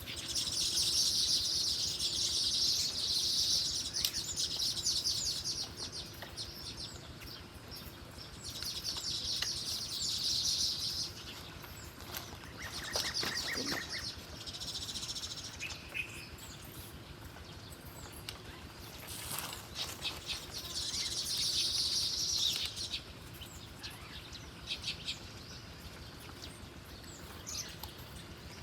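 Small bird giving rapid, high chattering calls in three main bursts of a few seconds each, with shorter calls in between.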